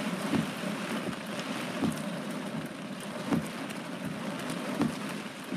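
Heavy rain mixed with hail pelting a car's roof and windshield, heard from inside the car as a steady hiss with wind, and soft low thumps about every second and a half.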